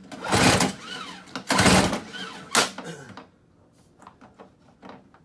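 Two hard pulls on the recoil starter of a Toro CCR1000 snowblower's 3 hp Tecumseh engine: the rope whirs out with a rising and falling whine over a rattling ratchet, and the engine turns over without catching. The starter sounds odd. A few faint clicks follow.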